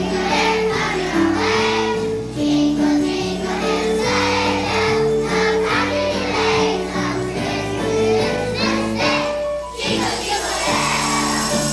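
Children's choir singing a Christmas song with instrumental accompaniment; about ten seconds in the music breaks off and a hissing haze of sound takes over.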